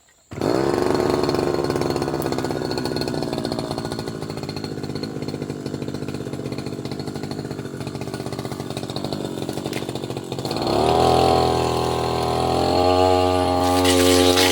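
Tasco 33 Pro brush cutter engine starting up abruptly and revving, running steadily, then revving higher about ten seconds in. A rattling, crackling noise joins near the end.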